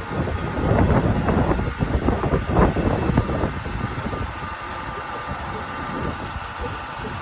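Chevy Impala engine idling while it warms up to operating temperature, so that trapped air can be burped out of its coolant system. The car has been overheating. The rumble is uneven and loudest over the first three seconds or so, then settles.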